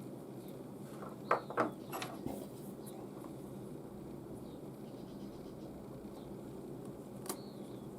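Light clicks and knocks of hand tools being handled during leather braiding: a quick cluster about a second in and one more near the end, over a steady low hum.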